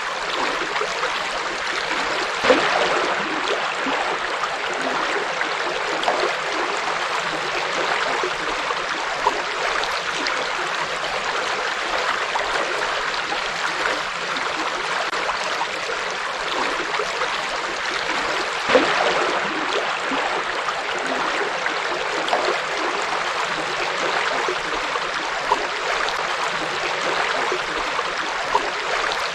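Forest river flowing steadily over rocks, a continuous rush of water with an occasional louder splash, two of them a little stronger.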